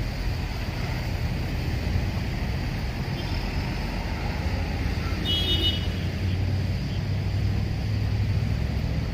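Street traffic noise: a steady low rumble of passing road vehicles, with a brief high-pitched tone about five seconds in.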